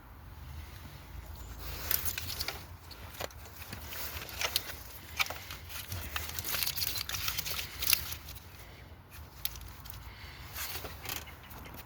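Hand tools and metal parts clicking and rattling irregularly during engine disassembly, busiest in the middle stretch.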